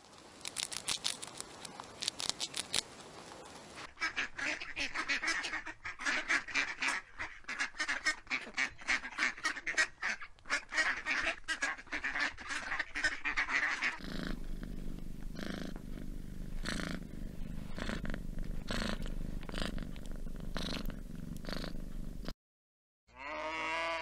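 A hamster chewing food, a rapid crunching crackle. After about fourteen seconds it gives way to ducks quacking, short calls once or twice a second. A cow's moo starts near the end, rising in pitch.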